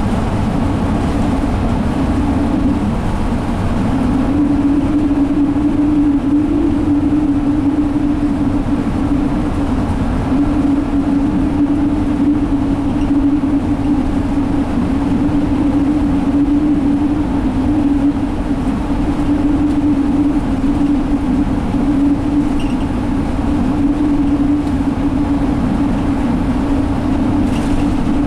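Cabin drone of a 2017 Alexander Dennis Enviro500 double-decker bus cruising at steady speed: its Cummins ISL diesel engine gives a steady hum over tyre and road rumble. The hum dips briefly about three seconds in, then holds steady.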